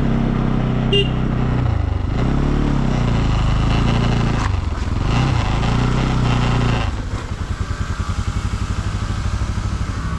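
Motorcycle engine running while riding, its pitch dipping and rising several times with throttle and gear changes. About seven seconds in it drops to a lower, pulsing idle.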